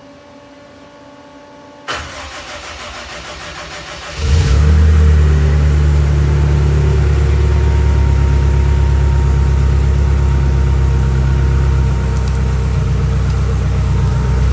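Honda S2000 cold start: the starter cranks for about two seconds, then the engine catches and settles into a loud, steady idle.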